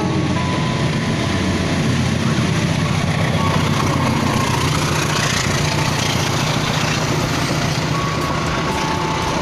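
Railway train running at the station: a steady low droning hum with faint whining tones coming and going above it.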